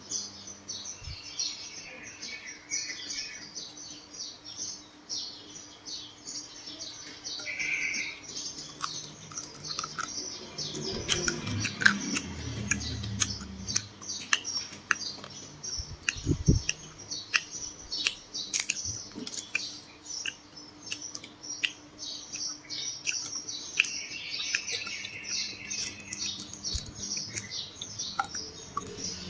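Crunchy chewing and breaking of crisp grilled water snake, a dense crackle of short clicks that grows busier in the second half. Birds chirp now and then in the background.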